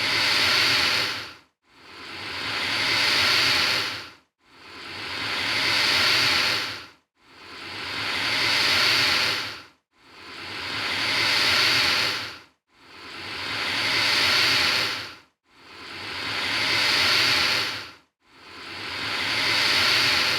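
Alligator hissing: a long, rough hiss that swells and then cuts off sharply, repeated at a steady pace about every two and a half seconds, seven or eight times over.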